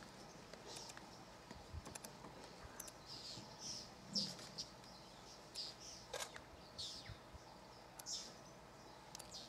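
Faint bird chirps in the bush: short high calls, several in a row, spaced about a second apart, over a quiet outdoor background.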